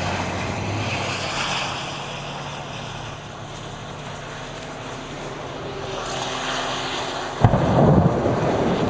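Vehicle engine running with a steady low hum, then a sudden loud, low rumbling rush about seven and a half seconds in.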